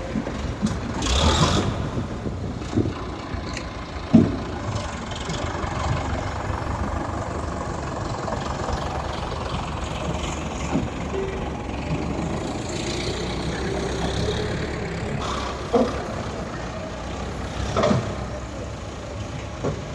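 Sonalika tractor's diesel engine running steadily, with a few sharp knocks along the way and a faint tone slowly rising in pitch midway.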